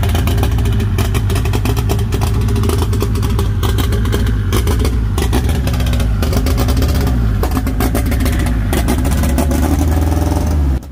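Turbocharged Honda K24 four-cylinder engine in an AWD Honda Odyssey minivan, running loud and steady with small rises and falls in engine speed. The engine swap has only just been got running.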